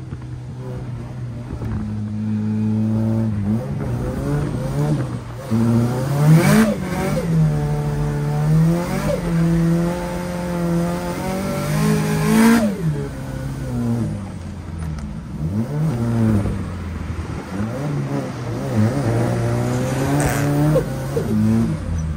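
Drift car engine revving hard, its pitch climbing and falling again and again as the throttle is worked. A sharp burst comes at the top of two long rising revs, about six and twelve seconds in.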